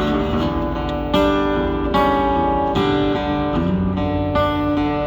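Acoustic guitar strumming chords in an instrumental break of a live country song, with a chord change about every second.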